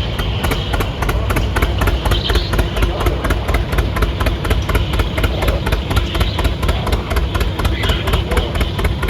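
John Deere Model D's two-cylinder engine running under load, pulling a sled. Its exhaust pops in a steady, even beat.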